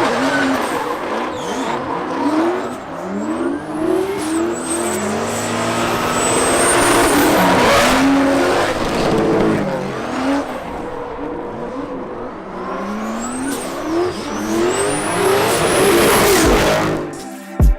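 Drift car engine revving hard up and down again and again as it drifts, with tyre squeal.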